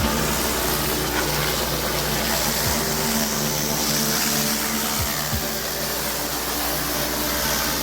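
Pressure washer engine running steadily under the hiss of high-pressure water spraying.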